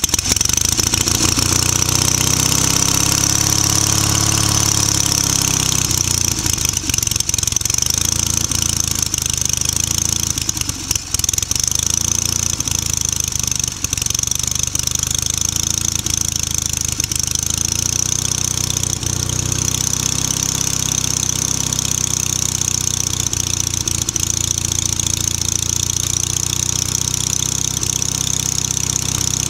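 Tractor engine running unevenly, its speed swelling up and settling back a few seconds in and wavering again later. The hunting is a sign of fuel starvation: the owner has a fuel problem and a carburetor that keeps clogging.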